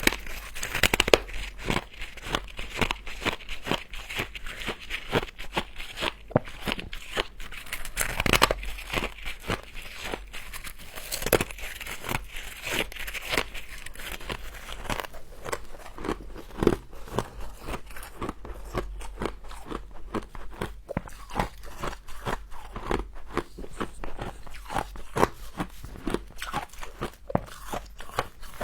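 Close-miked crunching of a person biting and chewing humidifier frost: many crisp, irregular crunches in quick succession, with a few louder bites.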